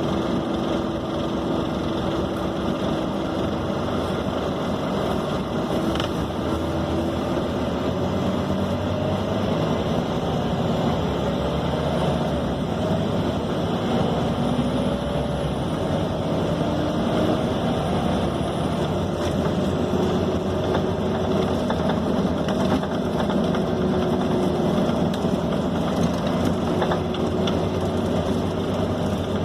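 Scania K270 city bus heard from inside the cabin while under way: a steady mix of engine and road noise, with faint whining tones that rise and fall.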